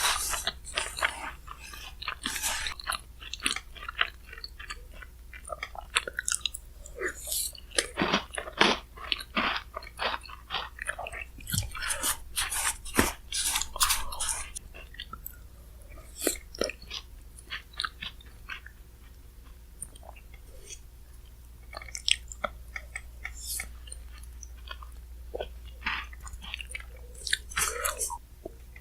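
Close-miked chewing and crunching of shaved-ice bingsu with cookie pieces, coming in bursts of crackling bites with short quieter pauses between.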